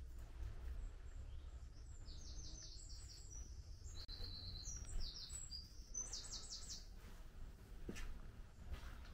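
A songbird singing: several quick runs of short, high repeated notes, from about two seconds in until about seven seconds in, over a steady low rumble.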